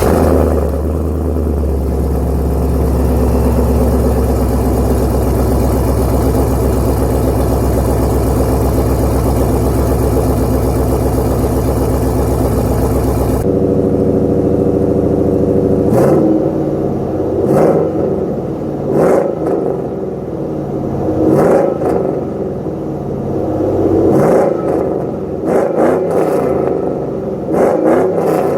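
Swapped 5.3-litre LS V8 in a 1992 Chevy Silverado, freshly started, running through a new single exhaust with a Magnaflow muffler, which has some leaks at the header gaskets. It runs steadily for about half the time, then drops in level suddenly and is revved in short blips about eight times.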